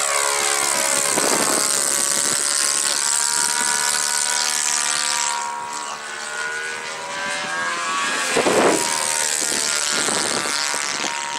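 RC trainer model airplane's motor and propeller running in flight, the pitch gliding down and up as it flies past. Wind gusts buffet the microphone a few times, loudest about eight and a half seconds in.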